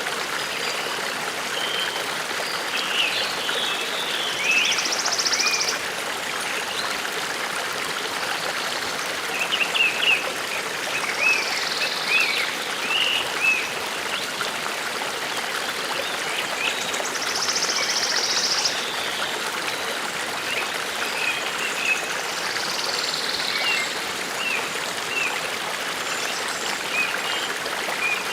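A forest brook running steadily. Birds sing over it with scattered short chirps and, every few seconds, a brief high trill.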